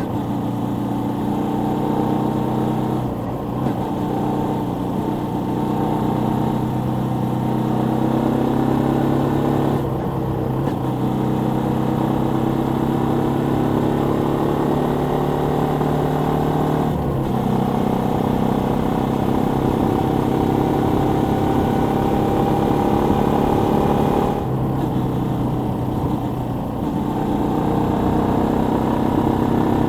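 Suzuki Volty 250 (TU250) single-cylinder engine running steadily, its note climbing slowly and dipping briefly about four times, as when the throttle is eased.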